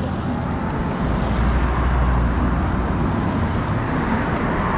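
Strong gusty wind buffeting the microphone, a steady low rumble under a hiss.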